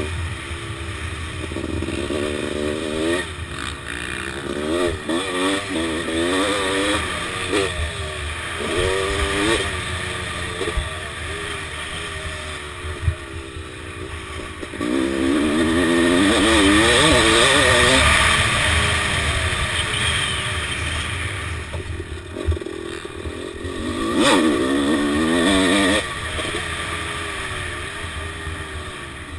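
A 1997 Honda CR250R's single-cylinder two-stroke engine, heard onboard, revving up and falling back again and again as the bike is ridden around a dirt motocross track, held longest at high revs around the middle. Wind rush runs under it, with a few sharp knocks near the middle and again later.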